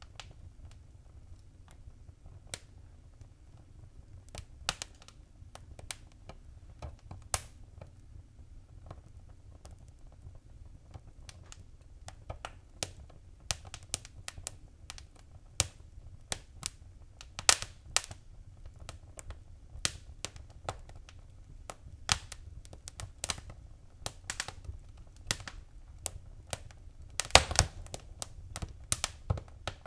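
Fireplace fire crackling: irregular sharp pops and snaps over a low steady rumble, with a quick run of louder pops near the end.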